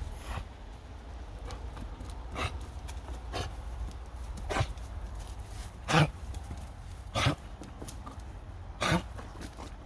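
A dog breathing hard through its nose while hanging on by its teeth: about six short, sharp breaths roughly a second apart, the loudest in the second half.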